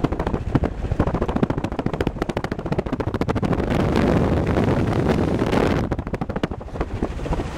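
Rapid, irregular crackling clicks over a steady low rumble inside a car driving through heavy snow.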